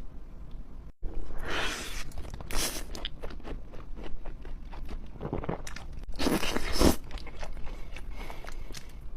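Bites into pizza crunching through the crust, followed by chewing, with many short crackling crunches. The biggest crunches come about five and six seconds in.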